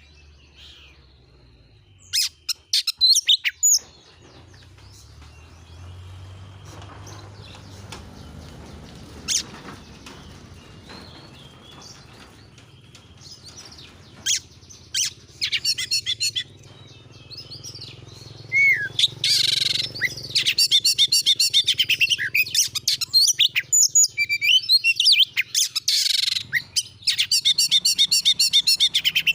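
An oriental magpie-robin (kacer) singing hard in loud bursts of rapid, sharply repeated whistles and trills, with short pauses between phrases. The song grows nearly continuous over the last ten seconds. A faint low hum runs underneath.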